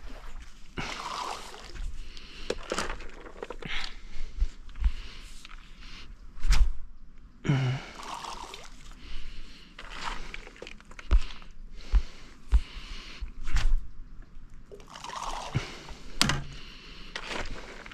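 Water splashing and sloshing in several short swells a few seconds apart, with scattered sharp knocks from handling gear in a small boat.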